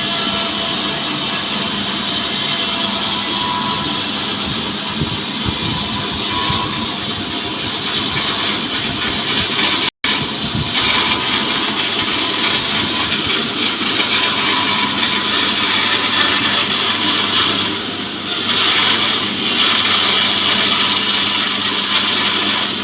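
Petrol chainsaw on a sawmill frame running steadily, sawing a mahogany log into boards. The sound breaks off for an instant about ten seconds in.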